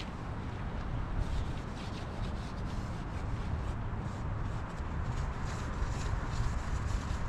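Hand sanding: a run of quick, irregular rubbing strokes, with wind rumbling on the microphone.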